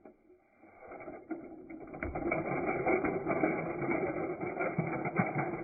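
A steady mechanical rattling rumble with scattered clicks, building up over the first two seconds.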